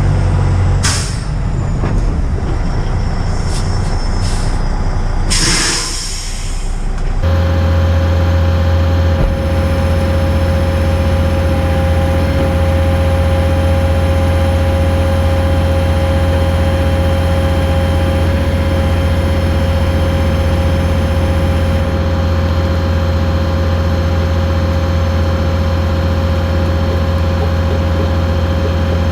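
Heavy diesel engine running steadily at a constant speed. In the first several seconds there are sharp hisses of released air, then from about seven seconds in the engine's low, even hum dominates.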